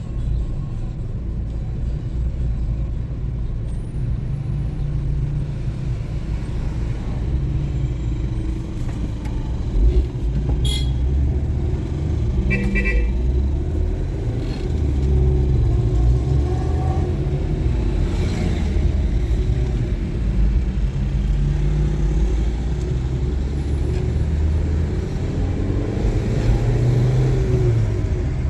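Motor vehicle on the move: a steady low engine and road rumble, with a short horn toot about twelve seconds in.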